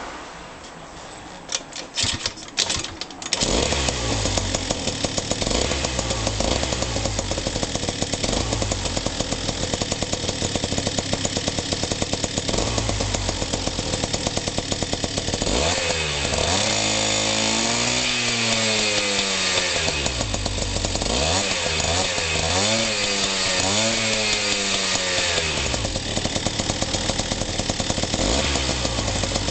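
Suzuki Address 110 scooter's two-stroke engine being started: a few knocks of cranking, then it catches about three seconds in and idles unevenly. From about halfway, it is revved up and down several times, then settles back to idle.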